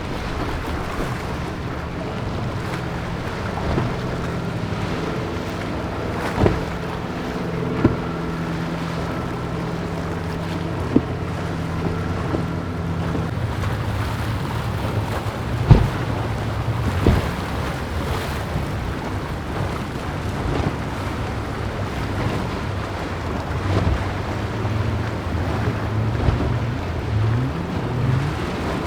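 Boat engines running in rough water, a steady hum that fades out about halfway through, with waves and wind buffeting the microphone and a few sharp thumps.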